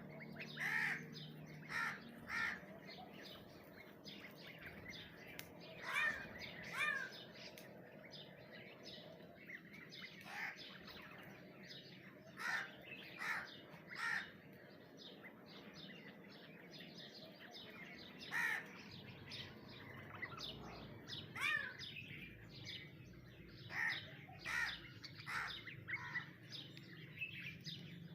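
Birds calling: short chirps and down-slurred notes repeated in irregular bursts, over a faint steady background hum.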